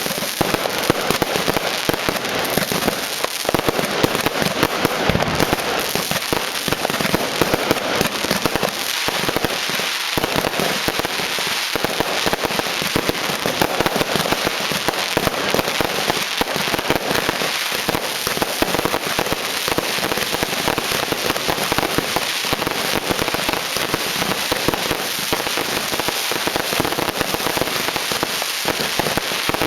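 Fireworks and firecrackers going off continuously: a dense, unbroken crackling with many overlapping bangs.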